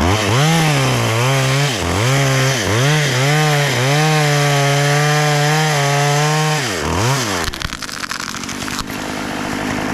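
Two-stroke Stihl chainsaw revved up and down several times, then held at full throttle for a couple of seconds as it cuts into a jackfruit branch. About seven seconds in it drops back to a quieter, rougher running.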